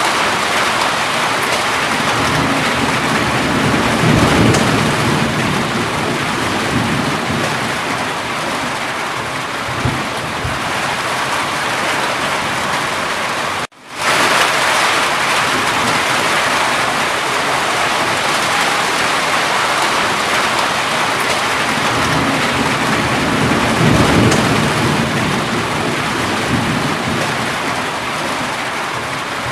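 Steady heavy rainfall hissing, with a low rumble of thunder swelling about four seconds in and again near the end. The sound cuts out for a split second about 14 seconds in.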